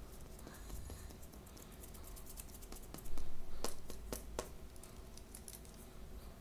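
Blind-bag toy packaging being handled and opened by hand: rapid crinkles and sharp clicks. It gets louder for a second or so just after the middle.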